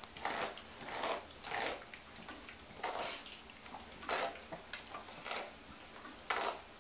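A string of irregular soft scuffing and rustling noises, each lasting a fraction of a second.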